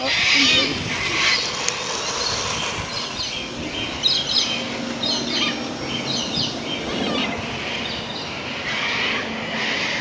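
Many birds chirping and calling in short, repeated notes, over the rush of wind on the microphone.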